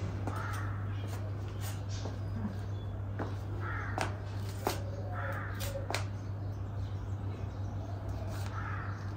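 A bird calling about four times, rough calls spaced a second or more apart, over a steady low hum with scattered light clicks.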